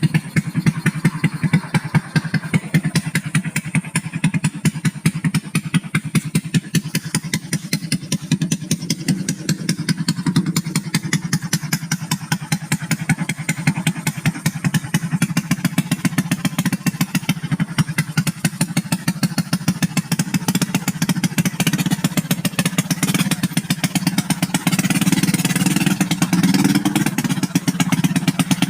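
Motorcycle engine running steadily, a fast even pulse of firing strokes.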